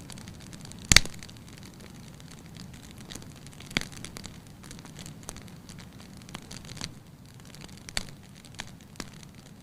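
Wood fire crackling in a fireplace: a loud pop about a second in, then smaller snaps and pops at irregular intervals over a low steady background of the burning.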